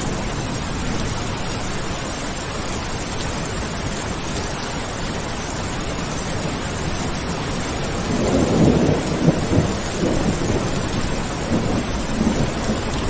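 Steady heavy rain with a roll of thunder breaking in a little past the middle, a low crackling rumble that lasts several seconds.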